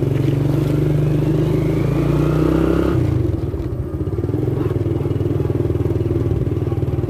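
Yamaha Vega underbone motorcycle's single-cylinder four-stroke engine pulling away, its pitch rising over the first three seconds. It drops abruptly about three seconds in, then runs steadily.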